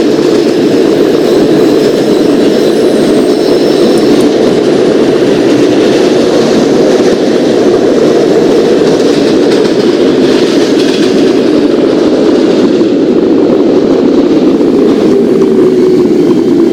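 Subway garbage train running along the track: a loud, steady rumble, with a faint tone that slides lower near the end.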